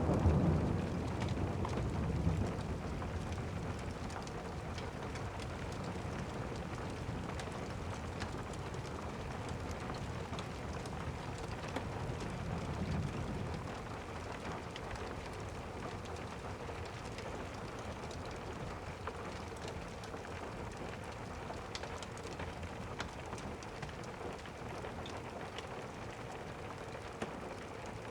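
Steady rain with a roll of thunder dying away over the first couple of seconds, and a fainter distant rumble of thunder about twelve seconds in.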